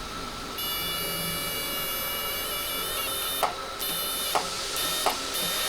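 A small electric motor runs with a steady high-pitched whine, stops about three seconds in, then runs again in short spells, with a few sharp clicks between them.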